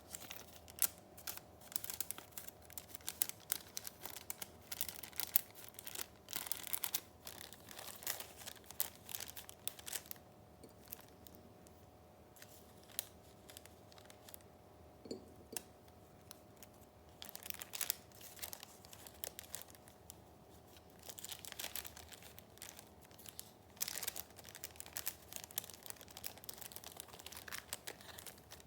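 Paper rustling and crinkling as sheets and pages of a handmade junk journal are handled, in many short, sharp strokes, with a quieter spell in the middle.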